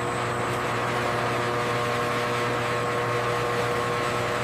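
Steady machinery hum: a constant drone with several held tones over a noisy background, without any change.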